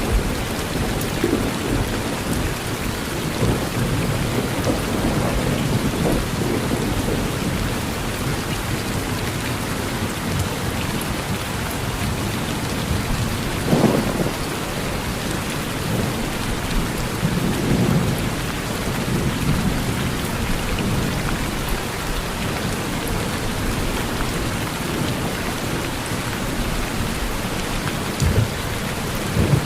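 Steady rain falling on a porch, with low thunder rumbling through it in swells, the strongest about halfway through and again near the end.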